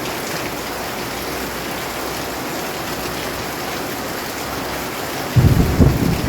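Steady heavy rainfall. Near the end a loud, low rumble of thunder suddenly breaks in and carries on.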